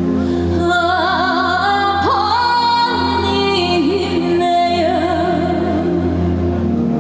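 A female singer sings a Gyeonggi minyo (Korean folk song) medley over backing music. She holds long notes with a wide, wavering vibrato and slides quickly upward about two seconds in.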